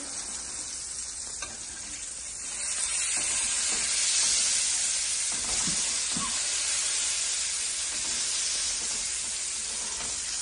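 Lamb keema patties sizzling steadily in hot oil in a frying pan, the oil mostly released from the mince itself; the sizzle swells about three seconds in. A few light scrapes of a metal spatula against the pan come as patties are lifted out.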